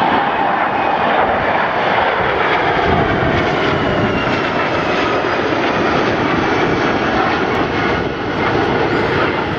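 Loud, steady jet engine roar of a low flyover by an Airbus airliner flying with the Patrouille Suisse formation jets, with faint whining tones that slowly slide in pitch as the aircraft pass.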